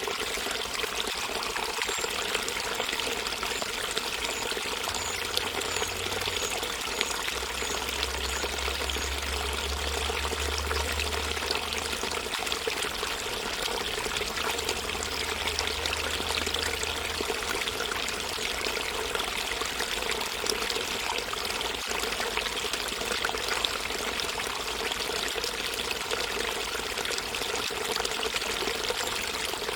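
Water running steadily in a continuous splashing flow, without a break.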